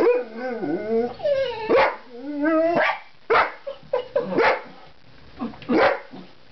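Pet dogs whining and yipping with rising and falling cries for about three seconds, then a run of short, sharp barks, aroused by a bird outside the glass door.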